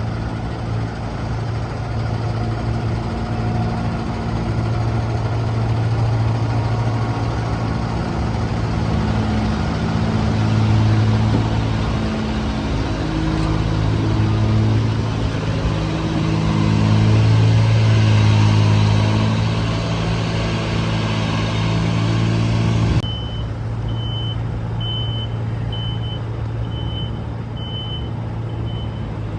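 Liebherr T 264 mining haul truck's engine running with a deep drone that swells and eases as it drives. About 23 s in, after an abrupt change, a high reversing alarm beeps steadily, about three beeps every two seconds, over the engine.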